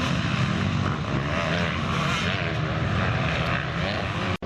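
Motocross motorcycle engines revving up and down on the track. The sound cuts off abruptly for a moment near the end.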